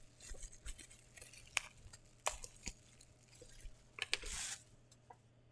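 Quiet handling of boxed merchandise and its packaging: scattered light clicks and taps, with a brief rustle about four seconds in.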